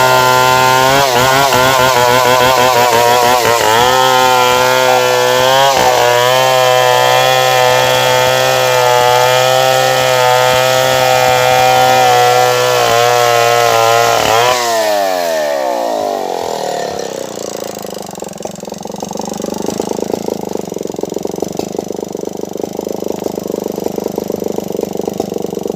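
Stihl 070 two-stroke chainsaw running at high revs through wood, its pitch dipping and recovering under load. About 15 s in the throttle is released and the saw winds down steeply, leaving a lower, quieter steady engine sound.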